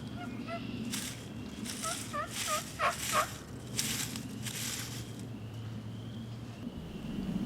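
Wild turkey gobbler gobbling up close: a quick run of short warbling notes in the first half, with several brief hissy bursts in between.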